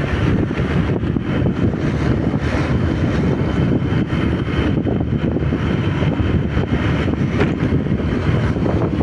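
Wind rushing over the microphone of a moving motorcycle, a steady dense rumble, with the motorcycle's engine running underneath.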